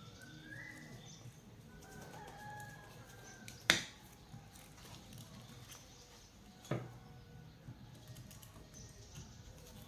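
Two sharp knocks about three seconds apart over faint bird calls.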